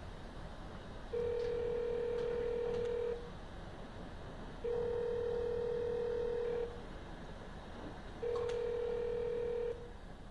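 Telephone ringback tone: three long, steady beeps of about two seconds each with short pauses between them. The call is ringing and waiting to be answered.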